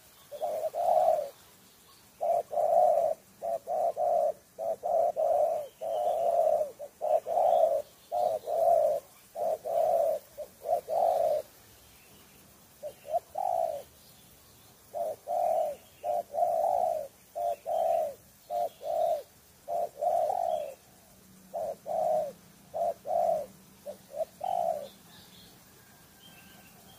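Wild spotted dove (tekukur) cooing: runs of short, rapid coo notes, pausing briefly about halfway through before starting again.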